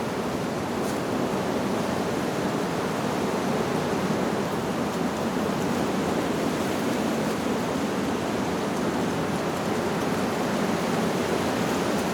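Wind blowing steadily through leaves: an even, unbroken rustling rush.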